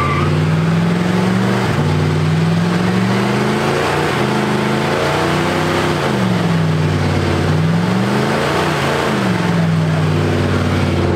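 A vehicle engine revving up and down. Its pitch climbs slowly over the first few seconds, dips and rises again in the middle, and drops near the end.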